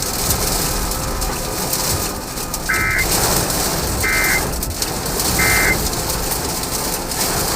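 Three short electronic beeps about a second and a half apart, over a steady rushing noise of wind and rain.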